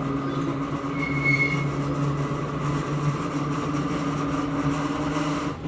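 Hakone Tozan Railway Moha 1 car's nose-suspended (tsurikake) traction motors and gearing humming steadily under the car while it runs, heard from inside the car. The hum drops away abruptly near the end.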